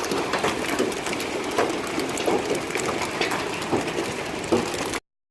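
Heavy rain and hail pelting down, a dense patter thick with sharp individual hits. It cuts off abruptly near the end.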